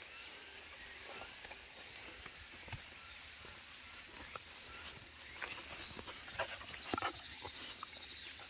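Quiet outdoor background with a steady faint high hiss, broken by a few light clicks and rustles. These gather into a louder cluster about five to seven seconds in.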